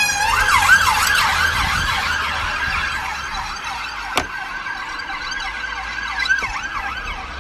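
Emergency vehicle siren in a fast yelp, its pitch sweeping up and down about three times a second, over a low vehicle rumble. A sharp click comes about four seconds in.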